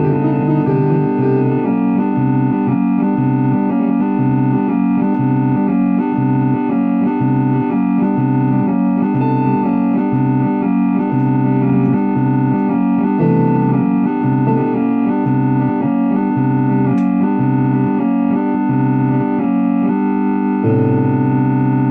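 Electronic organ playing sustained chords over a short bass note that repeats about once a second; near the end the bass note is held.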